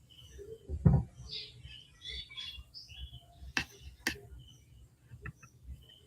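Scattered short, high chirps of small birds, with a heavy low thump about a second in and two sharp clicks a little past the middle.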